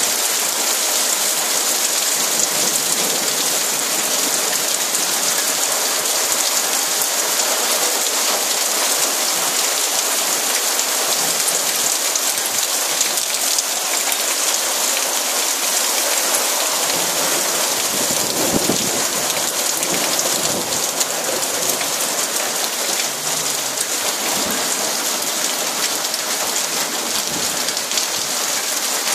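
Heavy rain falling steadily on flooded pavement, with raindrops splashing into standing water. A low rumble of thunder rolls in a little past halfway and fades a few seconds later.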